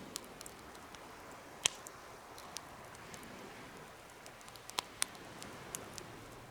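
Wood fire burning in a home-made fire pit: a steady hiss with irregular crackles and a few sharp pops.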